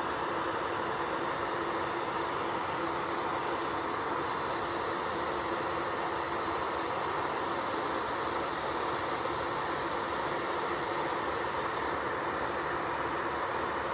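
Electric nail drill (e-file) running steadily at high speed with a constant whine, filing off old gel polish.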